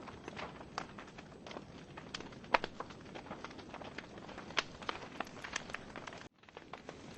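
Wood fire crackling in a fireplace: irregular sharp pops and snaps over a soft hiss, with one louder pop about two and a half seconds in. The sound cuts out for a split second about six seconds in.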